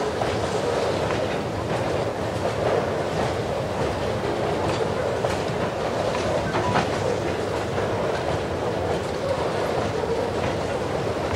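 Loaded coal hopper wagons rolling past steadily, their wheels clicking irregularly over the rail joints.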